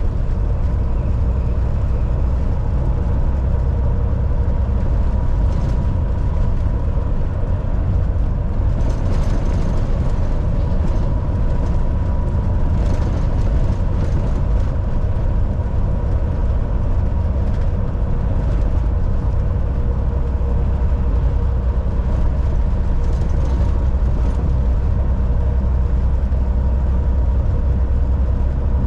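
Volvo VNL 760 semi truck cruising at highway speed: a steady low engine drone mixed with road noise, with a faint steady whine above it. A few brief swells of hiss come and go in the middle and later on.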